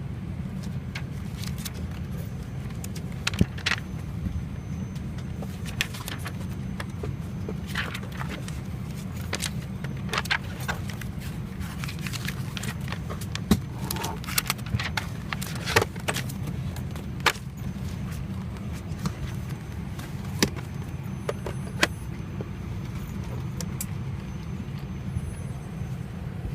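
Airliner cabin on the ground: a steady low hum of the aircraft's air system, with scattered light clicks and knocks, the loudest around the middle.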